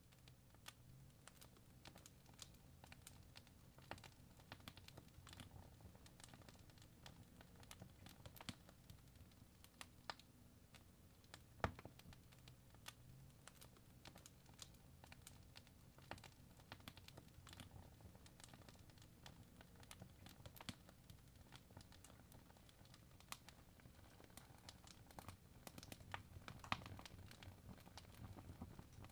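Faint fireplace fire crackling, with irregular small pops and snaps and one louder pop about twelve seconds in.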